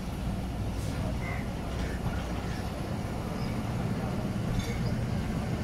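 Passenger train riding slowly, heard from a coach window: a steady low rumble with a low hum under it and a couple of faint clicks.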